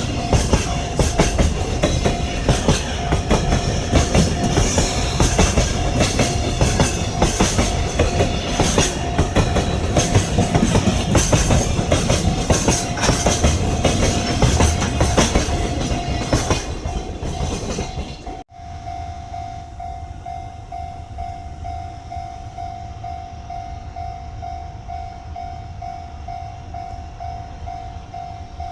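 A freight train rolling past close by, its wheels clattering over the rail joints, with a steady high tone running through it. About two-thirds of the way in the sound cuts off sharply to a quieter scene, where a pulsing high tone goes on over a low rumble.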